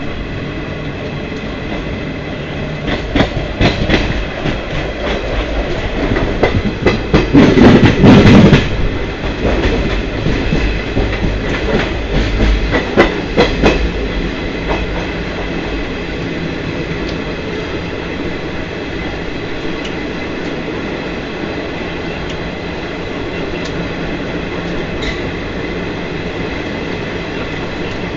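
Indian Railways passenger coaches passing close by: a steady rumble of wheels on rail, with a run of sharp clattering wheel clicks from about three to fourteen seconds in. It is loudest around eight seconds in, then settles to an even rumble.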